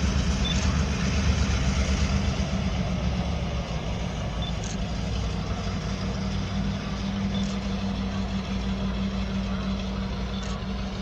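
Freight train rolling slowly past: a steady low diesel hum, with a faint click about every three seconds.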